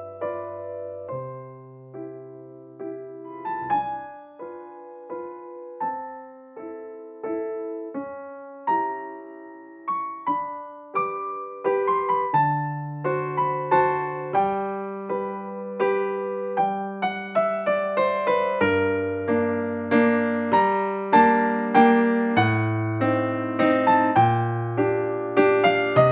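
Background music: a gentle electric piano playing a melody over slow bass notes, the notes growing busier about halfway through.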